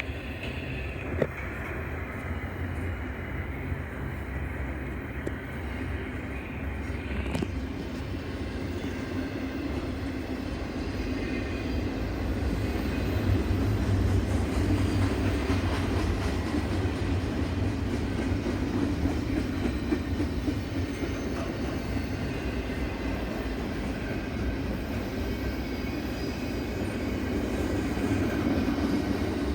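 A train rolling past on the track: a steady noise of the railcars running over the rails, growing somewhat louder about halfway through.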